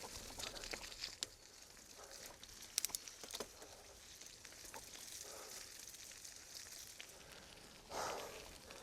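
Faint crackling and crunching of movement over a muddy forest track, with scattered sharp clicks, two of them close together about three seconds in.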